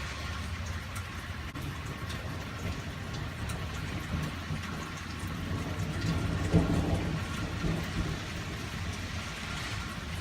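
Steady rain falling, with scattered drop ticks, over a low rumble that swells about six to seven seconds in.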